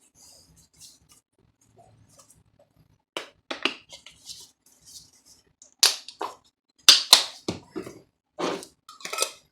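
Squeeze bottle of Parkay liquid margarine squirting onto a raw chicken breast, in an irregular run of short, sharp sputtering squirts that starts about three seconds in.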